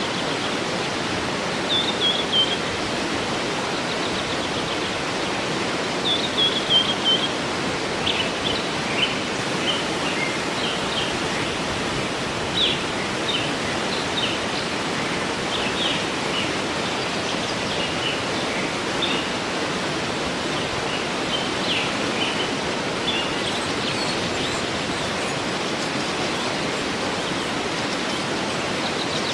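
Steady rush of a waterfall with birds chirping over it: a few short falling phrases, then scattered chirps that thin out near the end.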